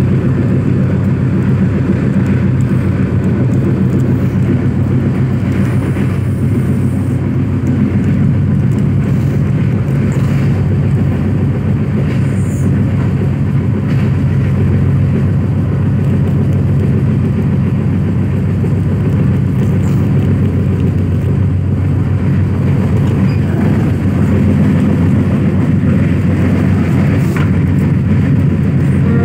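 Steady low rumble of a moving passenger train, heard from inside the coach as the wheels run on the track.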